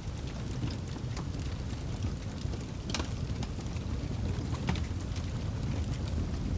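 Campfire burning with a steady low rumble of flame and scattered sharp crackles and pops from the burning wood, the loudest about three seconds in.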